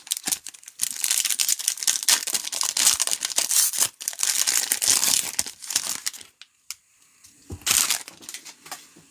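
A trading-card pack's wrapper crinkling and tearing as it is ripped open, crackling for about six seconds, then a shorter burst of crinkling near the end.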